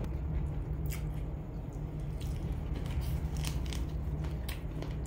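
A person chewing a mouthful of food close to the microphone, with irregular small crunching clicks over a steady low hum.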